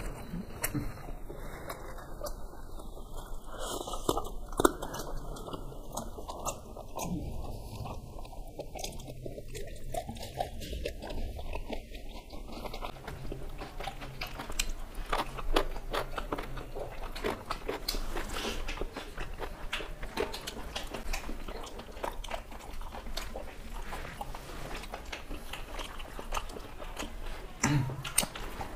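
Two people chewing and biting food eaten by hand: rice, chicken curry and fried vegetable pieces, with many small irregular mouth clicks and smacks close to the microphone.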